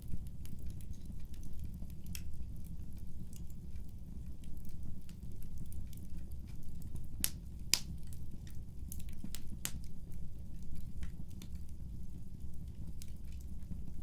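Wood fire burning in a fireplace, with a steady low rumble of the flames and irregular sharp crackles and pops, the loudest pops a little past seven seconds and near nine and a half seconds in.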